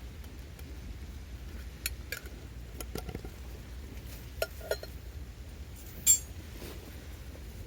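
A handful of sharp clinks, like metal or hard objects knocking together, each with a brief ring. The loudest comes about six seconds in, over a steady low rumble of wind or surf.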